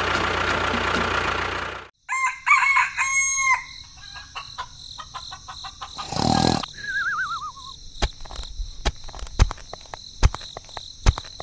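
A rooster crowing, about two seconds in, after a rush of noise. Later comes a short burst of noise, then a warbling falling whistle, and then a run of sharp clicks over a steady high tone.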